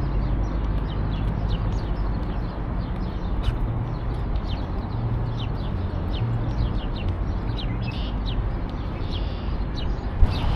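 Small birds chirping, many short calls scattered throughout, over a steady low rumble. A single sharp knock near the end.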